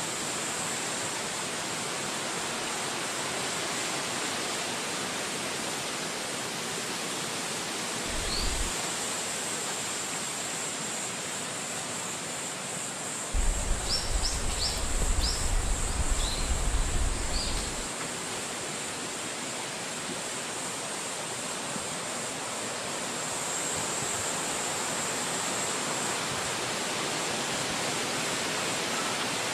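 Steady wind rushing through forest trees, with low rumbling gusts buffeting the microphone briefly about eight seconds in and again for several seconds around the middle. A few short, high chirps come with the gusts.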